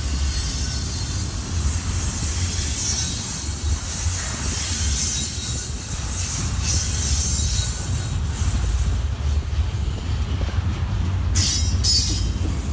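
Freight train's cars rolling past on the rails, a steady low rumble with high-pitched wheel squeal from the wheels on the track.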